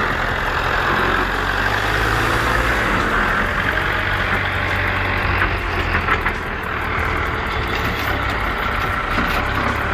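Heavy truck engine running steadily, with a few short knocks about six seconds in.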